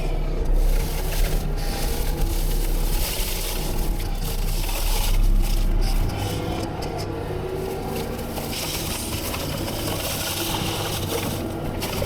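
Heavy land-clearing machinery running, with crunching and scraping of brush and wood being broken up. The low engine note drops away about halfway through, leaving the crackling and scraping.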